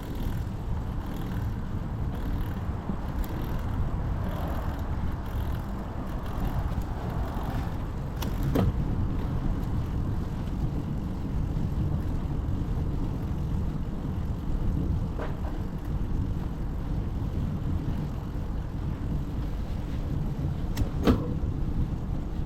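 Steady low rumble of wind and road noise heard from a moving bicycle, with a passing-traffic hiss swelling about 4 to 8 seconds in. Two sharp clicks, about 8 seconds in and near the end.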